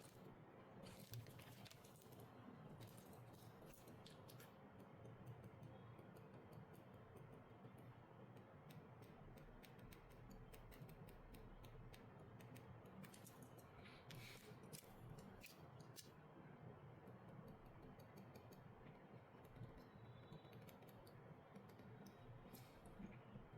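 Faint, scattered small clicks and taps of repair tools working on a smartphone during a screen and glass replacement, over a low hum of room noise.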